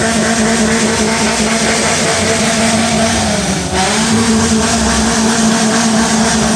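Toyota Corolla AE101's engine revved and held at high rpm, its exhaust giving the 'laughing' (ngakak) note. About three and a half seconds in the revs dip briefly, then climb back and hold high again.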